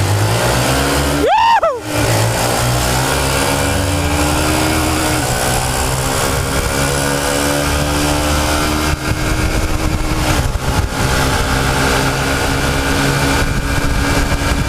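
Honda Titan 150 single-cylinder four-stroke motorcycles accelerating hard together from a rolling start in third gear. The engine pitch climbs steadily, dips briefly about a second and a half in and again around nine and ten seconds, then climbs again. A short rising-and-falling tone sounds about a second and a half in.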